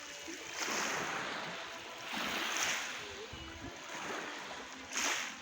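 Black Sea waves breaking and washing up the beach, surging three times: about half a second in, about two seconds in, and near the end.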